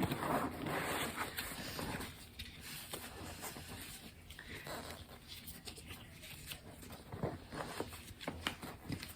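Rustling of fabric and car-seat harness straps being handled and fastened, with scattered small clicks and knocks. It is busier in the first two seconds, then turns to sparser handling sounds.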